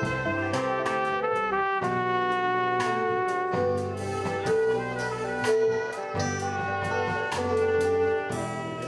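Art-rock band playing live, several instruments together over a steady beat, stopping near the end.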